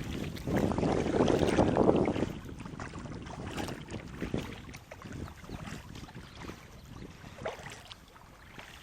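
Small boat on the water: a rush of water and wind noise for a couple of seconds near the start, then light knocks and splashes against the hull.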